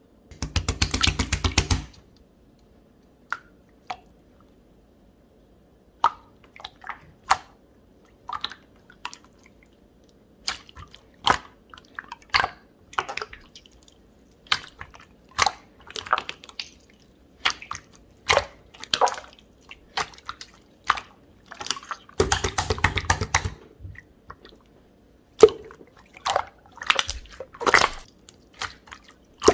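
Clear pink, jelly-textured slime being played with by hand, giving scattered sharp, wet pops and clicks. There are two stretches of rapid crackling, one near the start and one about two-thirds of the way through.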